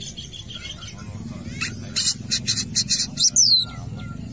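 Long-tailed shrike calling: a quick run of sharp, high notes, about five a second, starting under two seconds in and ending in a louder call that sweeps down in pitch. A low steady rumble lies beneath.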